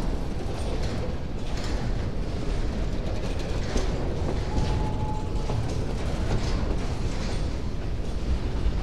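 Empty freight wagons rolling past close by: a steady rumble of steel wheels on the rails with repeated clanks and rattles from the cars, and a brief high squeal about five seconds in.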